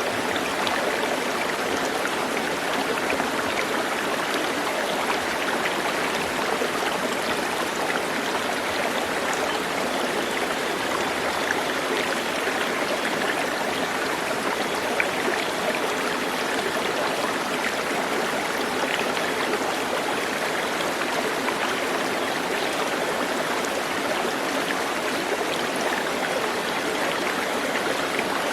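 Running water, a steady even rush like a stream, with no clear changes.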